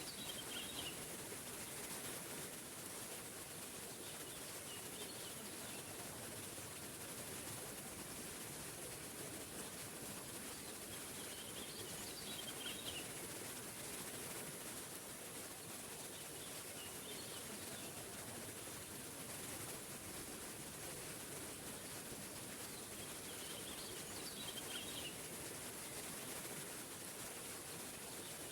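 Steady rushing of a small forest waterfall, with a bird chirping in short bursts every few seconds.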